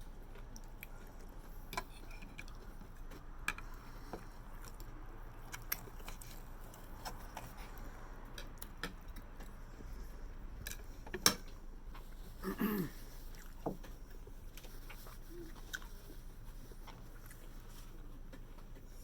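Sounds of eating a seafood boil: scattered small clicks and taps of hands, shells and utensils at the table. There is a sharper click about eleven seconds in, and a brief voice-like sound just after it.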